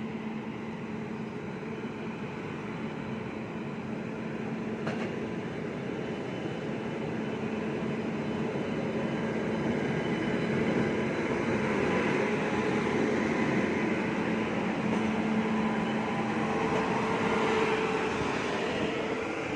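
Passenger train rolling on the rails, a steady rumble of wheels and carriages that grows gradually louder, with a steady low hum.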